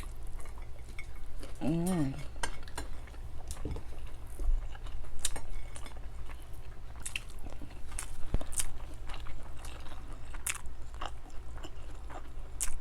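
Close-miked eating of crispy fried milkfish: chewing and crunching, with scattered light clicks and clinks on the plate and a brief hummed vocal sound about two seconds in, over a steady low hum.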